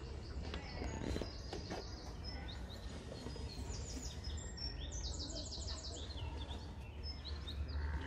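Small birds chirping and singing, several overlapping calls, with a quick run of repeated high notes about five seconds in. A steady low rumble lies underneath.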